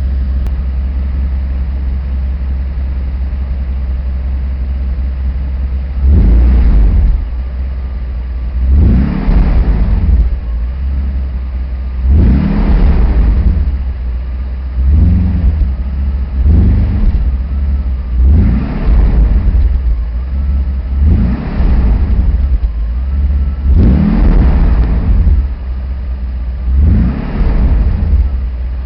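Mercedes W140 S600's 6.0-litre V12 through a Lorinser rear silencer, idling steadily, then revved in about nine short blips every two to three seconds from about six seconds in, dropping back to idle between each.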